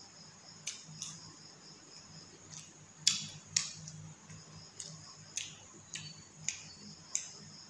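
Close-up eating sounds of a person eating rice and fish by hand: irregular wet mouth smacks and chewing clicks, the loudest two a little after three seconds in, over a faint steady low hum.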